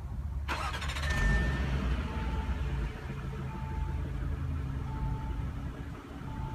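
2017 Audi Q7's 3.0-litre supercharged V6 running at idle, with a dashboard chime beeping about every second and a half.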